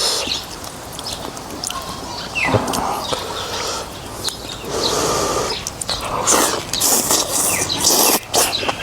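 Someone eating noodles in beef soup: wet mouth clicks and chewing, broken by several hissing slurps, with the densest run of slurping near the end.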